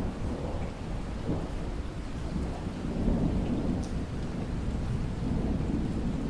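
Rain falling steadily, with a low rumble of thunder that swells and eases a few times.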